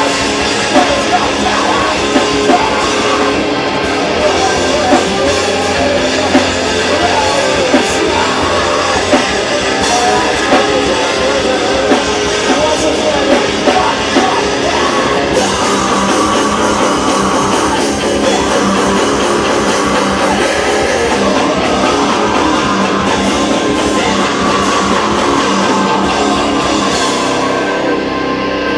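A heavy rock band playing live, loud: distorted electric guitars, bass and drum kit with vocals. Sharp drum hits stand out through the first half, and about halfway the playing turns into a smoother, more sustained passage.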